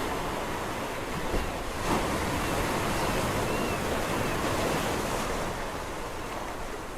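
Sea waves washing on the shore, one wave surging in about two seconds in and easing off near the end.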